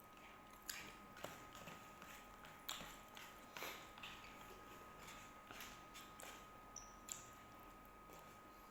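Near silence with scattered faint, short clicks and ticks from eating and handling food, about seven in all, over a faint steady high tone.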